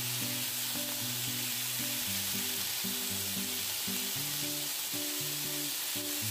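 Oiled chicken pieces on satay skewers sizzling on a hot grill pan, a steady hiss, over background music of held low notes.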